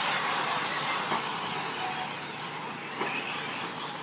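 Radio-controlled 4WD short course trucks racing around a dirt track, a steady even wash of noise.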